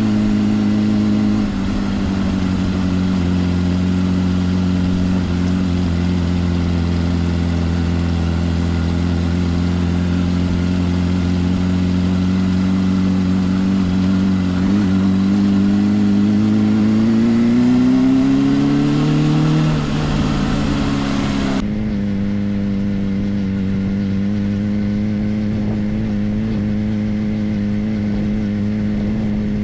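Suzuki GSR 400 inline-four engine with a Yoshimura exhaust running steadily while riding, the note climbing for a few seconds past the middle as it speeds up, then dropping back. Shortly after, the high hiss above the engine cuts away suddenly and the engine runs on at a steady pitch.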